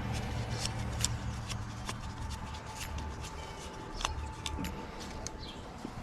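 Scattered light clicks and taps of small parts and tools being handled during a carburetor teardown, over a low steady background hum.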